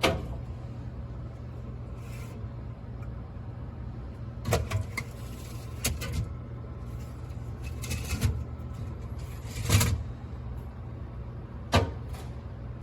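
Drink cans knocking and clattering against a plastic fridge can organizer as they are handled and loaded, about six separate knocks a second or two apart over a steady low hum.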